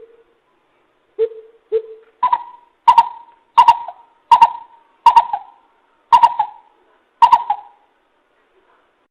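Coucal calling: a series of about nine deep hoots with an echoing tail. The first two are lower, and the rest are pitched higher and come about half a second to a second apart.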